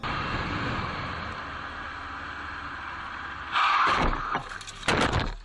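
Car on the road with a steady rush of road and wind noise, then two loud, harsh noisy bursts a little over a second apart near the end.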